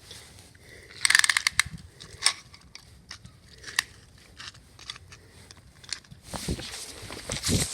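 Plastic toy train engines being handled and moved about: a quick run of clicks and rattles about a second in, then scattered clicks. From about six seconds in comes a louder stretch of scraping and crunching with low knocks.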